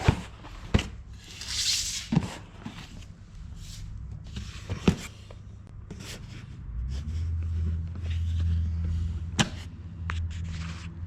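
Knocks, scrapes and a rustle as a cardboard box with its packaging is handled and set on kitchen scales, with scattered sharp knocks. A steady low hum comes in about seven seconds in.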